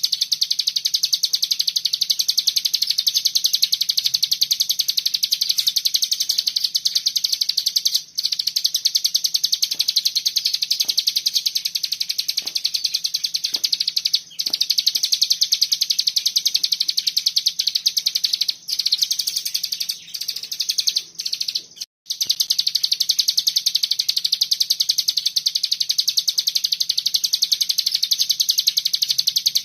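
Cigun songbird singing its 'ngebren' song: a very fast, tight, high-pitched trill, like a machine-gun rattle, held almost without a break. It stops briefly about 8 and 14 seconds in and a few times between about 19 and 22 seconds. A faint steady low hum runs underneath.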